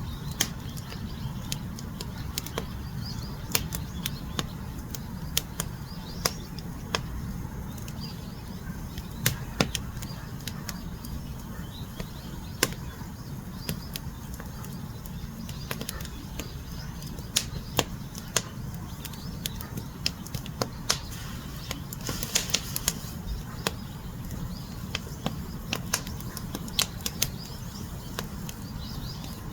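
Wood fire burning: a steady low rumble of flames with irregular sharp crackles and pops, and a short burst of hissing about three-quarters of the way through.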